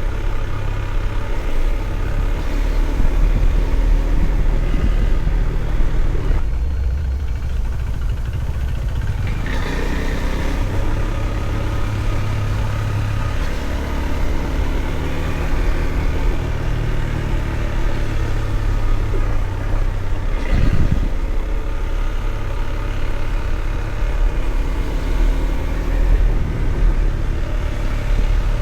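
Single-cylinder engine of a Husqvarna Svartpilen 401 motorcycle running under way, with a heavy low rumble of wind and road noise on the microphone; the engine note shifts in pitch a few times.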